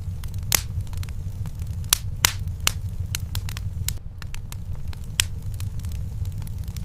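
Wood fire in a fireplace crackling, with irregular sharp pops, a few louder than the rest, over a steady low rumble of the flames.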